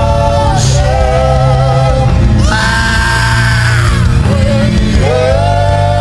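Worship music: a voice holding long sung notes, one after another, with a higher held note about halfway through, over a steady low instrumental accompaniment.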